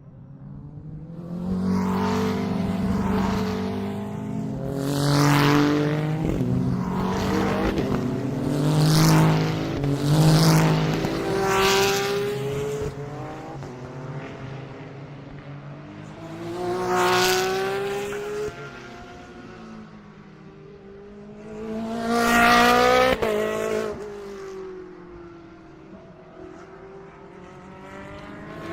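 GT3 race cars passing at speed, each engine note swelling and dropping in pitch as it goes by. A close string of cars comes through in the first dozen seconds, then single cars about 17 and 23 seconds in, with another arriving near the end.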